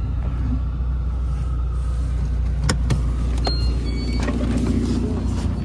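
Steady low rumble of a car heard from inside the cabin. A couple of sharp clicks come about halfway through, followed by brief high beeps.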